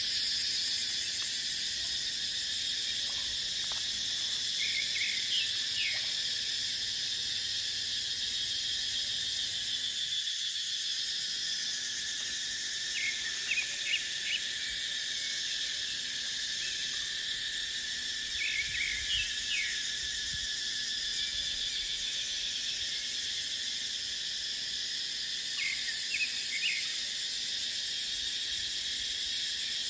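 Cicadas droning steadily in chorus, a continuous high-pitched buzz. Short clusters of chirping calls break in a few times.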